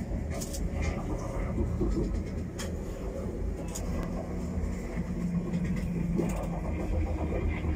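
Steady low rumble of a railway carriage, with scattered light clicks and faint voices in the background.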